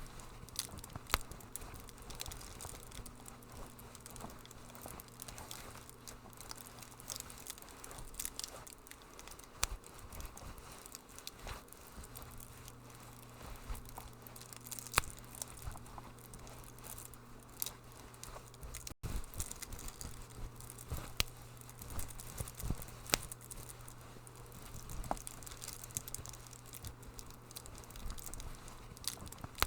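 Wood fire crackling in a fireplace: irregular sharp pops and snaps over a soft low hum, with a momentary dropout just past halfway.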